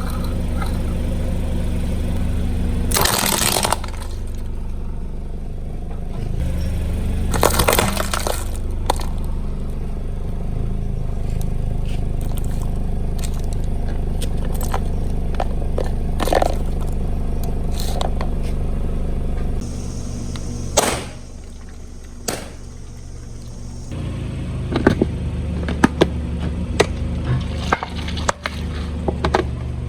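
A car engine idling steadily while a tyre rolls over and crushes objects, with loud crunching and cracking breaks about three seconds in and again around eight seconds, and scattered sharp snaps and cracks later.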